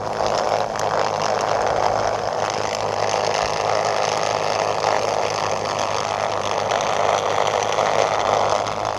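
Small electric motor spinning a homemade toy helicopter's rotor: a steady whir with a faint high tone running through it.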